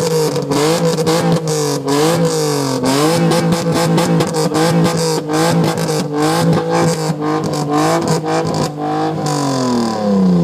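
BMW M3 straight-six engine revved hard in quick repeated blips, the pitch rising and falling about once a second with a crackling rasp, then the revs dropping away near the end.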